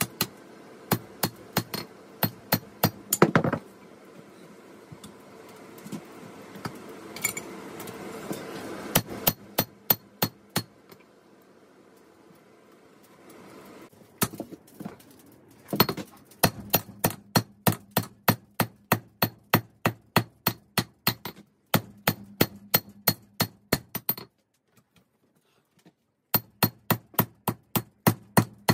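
Hammer blows on steel over an anvil, about three strikes a second with a bright metallic ring on each, in runs broken by short pauses: the blade of 5160 spring steel is being hammered to shape. A rushing noise swells behind the strikes for a few seconds in the first third.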